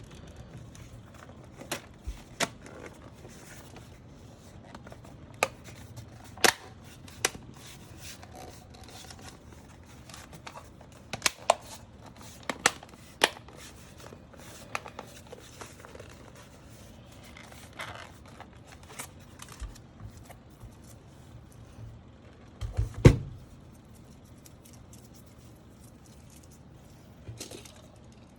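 Irregular sharp clicks, snaps and light taps of small keyboard parts being handled and worked during a mechanical keyboard build, with one louder knock about three quarters of the way through.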